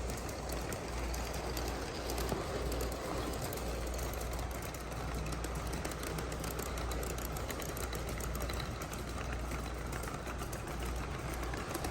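G-scale model train, an Aristocraft RS3 diesel locomotive hauling freight cars, running steadily along the track with a low motor hum and rapid wheel clicks.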